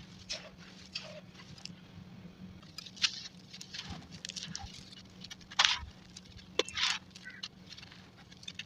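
Crumbly charcoal and brick chunks being crushed, sped up: scattered small gritty crackles with a few louder crunches.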